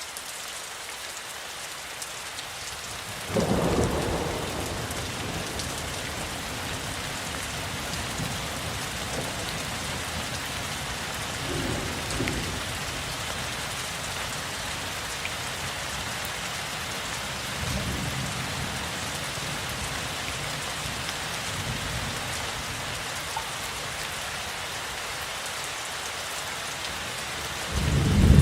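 Steady rain falling in a thunderstorm. A loud clap of thunder comes about three seconds in and rumbles away, fainter thunder rumbles follow in the middle, and another loud peal of thunder begins near the end.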